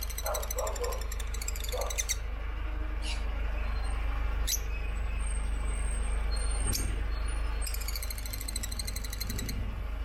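African lovebirds calling: soft low notes in the first second, and rapid high chattering at the start and again near the end, over a steady low hum.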